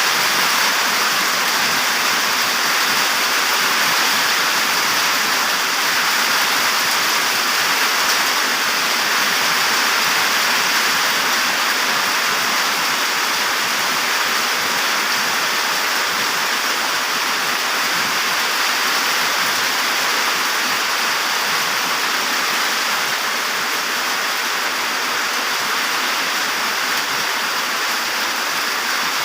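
Steady hiss of drizzling rain mixed with strong wind, even and unbroken throughout.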